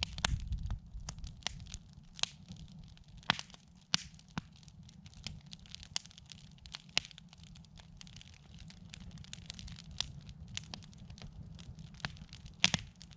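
Wood campfire crackling: irregular sharp pops and snaps, a few louder than the rest and one strong pop near the end, over a steady low rumble.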